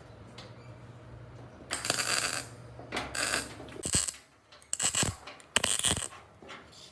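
Metal clattering and scraping in about five short bursts, one after another.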